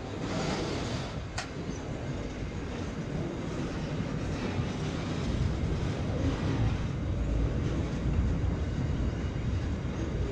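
Intermodal freight wagons rolling slowly past on steel rails: a steady rumble of wheels on track, with one sharp click about a second and a half in, the low rumble growing louder about halfway through.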